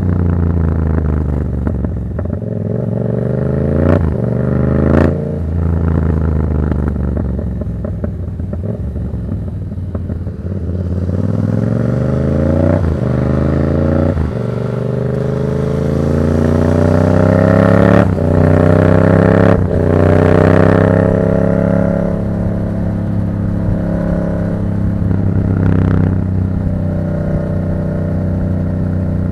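Yamaha MT-07's 689 cc parallel-twin engine through an aftermarket Black Widow exhaust, accelerating through the gears. The revs climb and fall back at each gear change, several times over, with a short crack at several of the shifts. Near the end it holds a steadier note while cruising.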